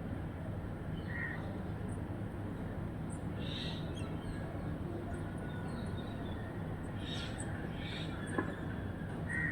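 Birds calling over a steady low background rumble: a crow caws about a second in and again near the end, with a few short, higher calls in between.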